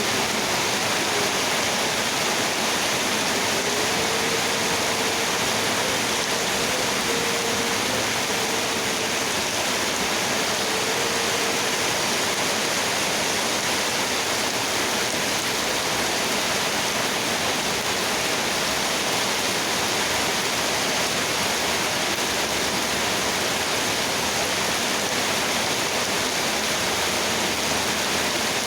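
Heavy rain pouring down in a steady, dense hiss, with a faint steady hum for the first several seconds.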